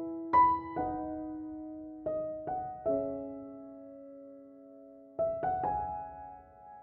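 Slow, soft piano music: small groups of notes and chords struck a few at a time, each left to ring and fade, with a long pause in the middle.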